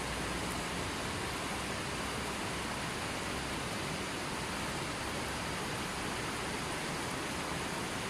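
Steady, even rush of water, with no change in level and no bird calls standing out.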